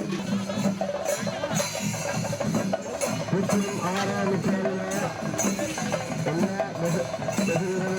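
Kerala temple-festival percussion ensemble playing a dense, steady run of drum and cymbal strokes. A held drone and a wind instrument's melody rise and fall over it in the middle.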